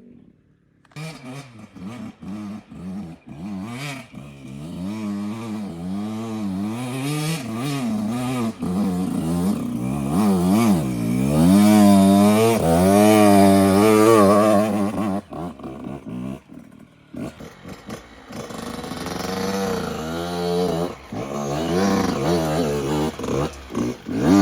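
Yamaha YZ85 two-stroke dirt bike engine revving up and down under throttle as the bike climbs a hill, its pitch rising and falling constantly. It is loudest about halfway through, fades briefly, then picks up again near the end.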